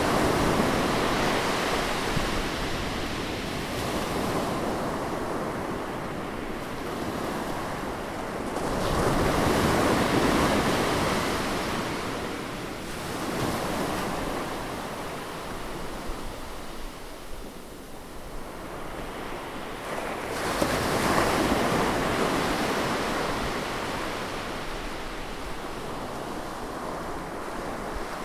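Ocean waves breaking and washing up on a shore, the surf swelling and easing in slow surges every ten seconds or so, with wind noise on the microphone.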